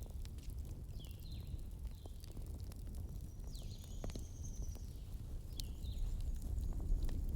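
Wood fire crackling: scattered sharp pops and snaps over a low steady rumble. A few faint, short, high falling squeaks and a thin whistle come through in the middle.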